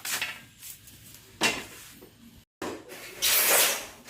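Hard objects being handled: a sudden knock about one and a half seconds in, then a longer rubbing or scraping noise near the end, with a brief dropout to silence between them.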